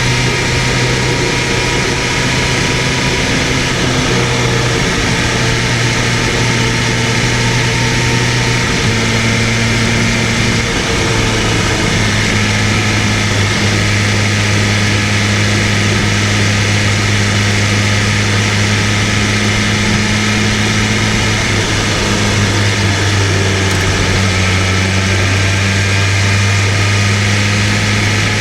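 BMW M1000RR superbike's inline-four engine running steadily under way, its pitch stepping down slightly a few times, over a constant rush of wind and road noise.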